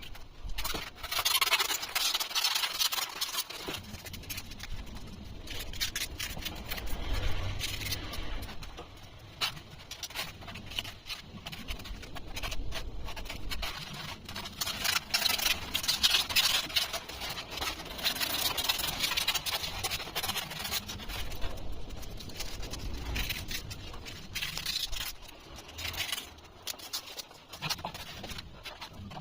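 Thermocol (polystyrene foam) being cut and rubbed, with a continuous run of squeaking and scraping.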